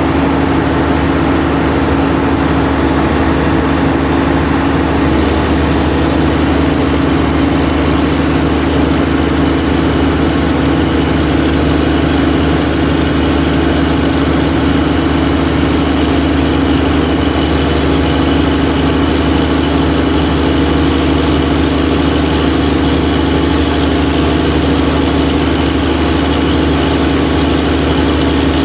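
Cummins 400 kVA open-type diesel generator set running steadily at constant speed, with a faint high whine that slowly rises in pitch.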